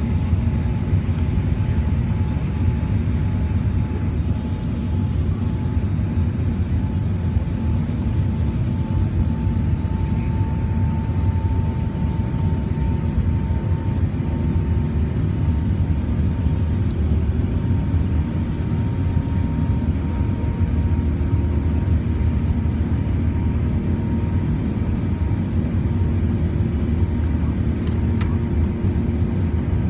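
Emirates Airbus A380 jet engines running under power after takeoff: a steady, loud low rumble with a faint steady whine above it.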